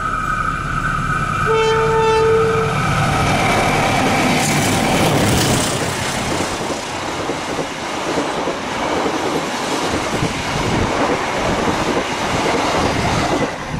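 Train horn sounding for the first couple of seconds, then the loud, steady rushing and rail clatter of a train running along the track.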